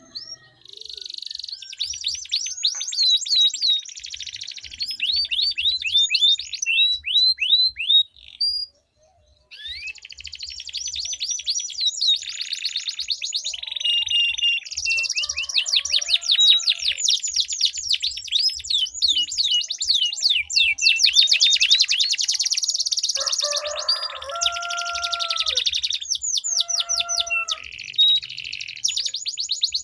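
Domestic canaries singing long rolling songs: very fast, high trills of repeated notes, changing from one roll to the next, with a brief pause about nine seconds in and some lower, steadier notes about three-quarters of the way through.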